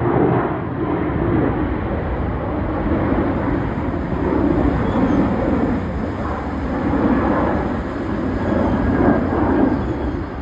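Jet airliner engines, a loud steady rushing noise that swells and eases in slow waves.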